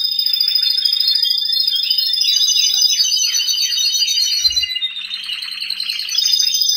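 Domestic canary singing: long rolling trills of high whistled notes, broken in the middle by a run of quick falling sweeps, then back to a held trill.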